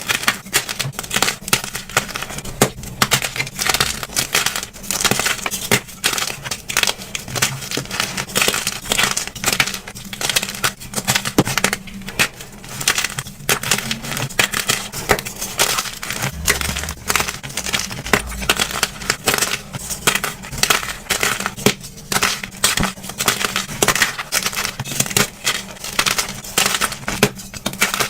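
Dyed gym chalk blocks being crushed by hand: continuous dry, crackly crunching and crumbling in quick irregular bursts.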